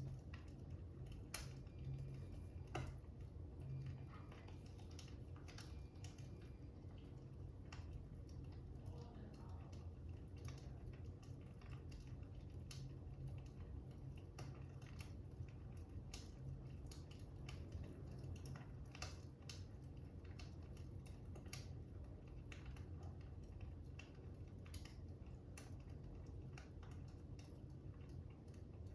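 Fire crackling: faint, irregular small pops and snaps over a steady low rumble.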